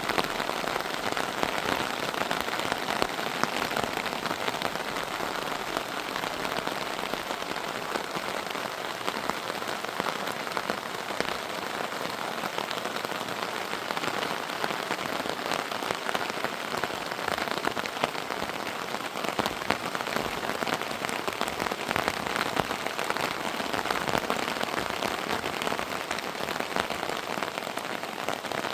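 Heavy rain falling steadily, a dense, even hiss of many small drop impacts with no lulls.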